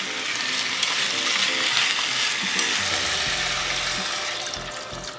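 Diced chicken and vegetables sizzling in a pot as they are stirred with chopsticks; near the end water is poured in from a bottle and the sizzle fades.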